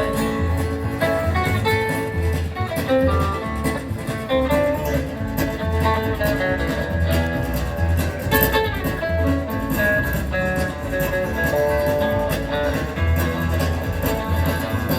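Live country band playing an instrumental break: a plucked guitar lead picks a melody over a bass line that pulses at a steady rhythm.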